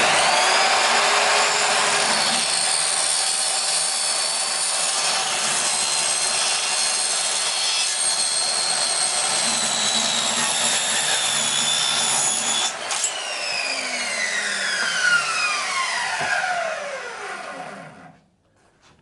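Power saw cutting through a retractable-screen housing tube, a loud steady cutting noise for about 13 seconds. The saw is then switched off and the blade spins down with a falling whine that fades out over about five seconds.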